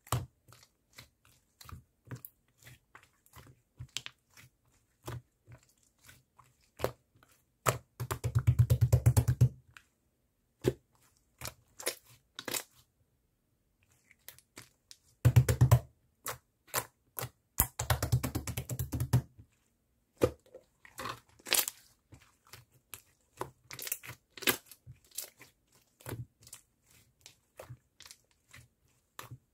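Cola slime being pressed and squished by hand, giving scattered sticky clicks and pops. Three times, about 8, 15 and 18 seconds in, it breaks into a run of rapid crackling pops lasting a second or two.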